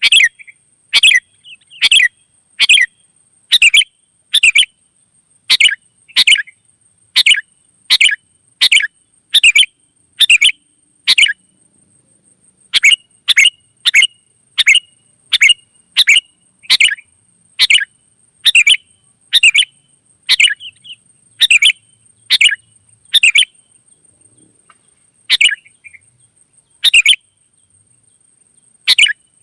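Sooty-headed bulbul (kutilang) calling: short, sharp, repeated notes at about three every two seconds, broken by a few pauses of a second or two near the middle and toward the end. A faint steady high-pitched tone runs underneath.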